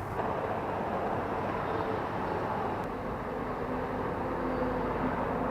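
Motorcycle on the move on a highway: steady wind and road rush with a faint, even engine hum underneath.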